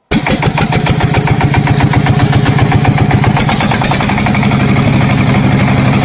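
Tractor engine idling steadily with a rapid, even chugging, cutting in suddenly at full level.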